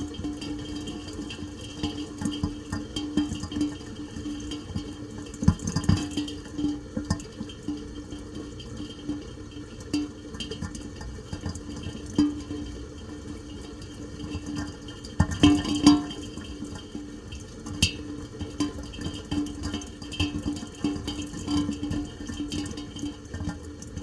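Rain and dripping water, with irregular drops and taps over a steady low hum, and a few louder knocks at about 5 s and 15 s.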